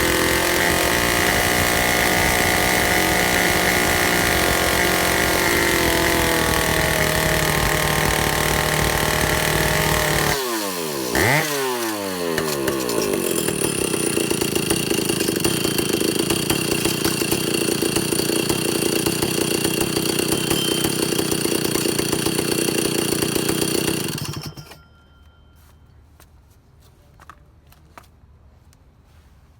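Vintage Stihl two-stroke chainsaw engine running at high revs, then dropping back sharply about a third of the way in, blipped once, and running on steadily at a lower speed before it cuts off suddenly. A few faint clicks and taps follow.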